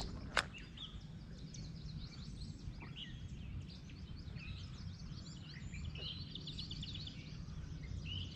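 Small birds chirping and trilling, with a denser trill near the end, over a low steady rumble. A single short, sharp sound comes about half a second in.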